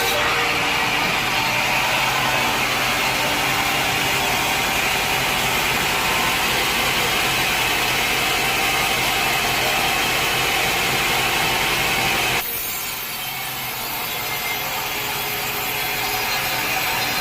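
Sawmill blade cutting through a log, a steady loud sawing noise over a low hum. About twelve seconds in the sound changes abruptly: the low hum drops away and it gets slightly quieter.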